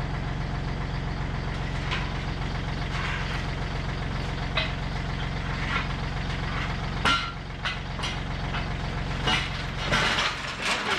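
A steady low mechanical hum, like a motor running, that drops away about seven seconds in, with scattered clanks and knocks.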